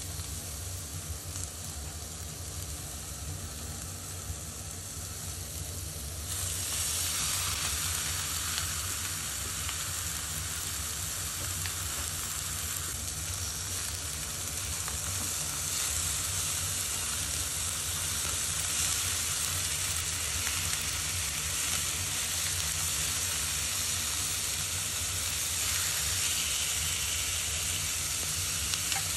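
Food sizzling in a frying pan, a steady hiss that grows louder about six seconds in.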